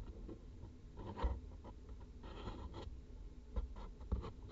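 Faint taps, clicks and scratchy scrapes from small tools being handled during soldering work on a circuit board, with one louder knock about a second in.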